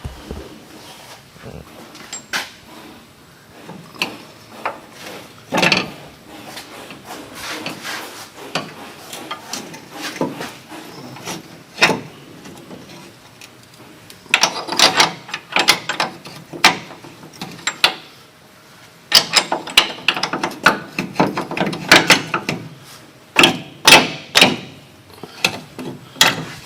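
Hand tools and steel suspension parts clanking and knocking during assembly work: scattered sharp strikes, then two longer spells of rapid clicking and clanking in the second half.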